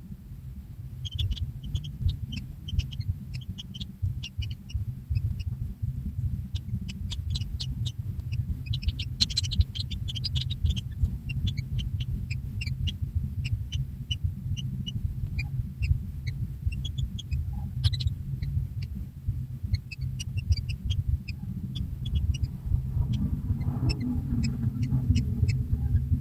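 Kingfisher nestlings in the nest giving many short, high chirping calls, scattered irregularly, over a steady low rumble.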